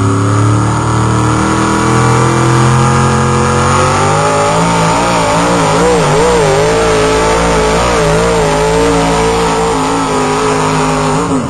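Pulling truck's engine at full throttle dragging a weight-transfer sled down the track, its pitch climbing steadily, then wavering up and down, and cutting off abruptly near the end.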